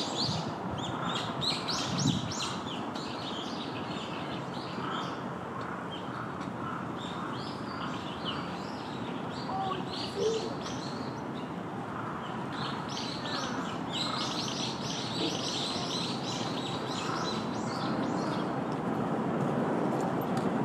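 Small birds chirping in quick runs of short, high notes that come and go in bursts, over steady background noise.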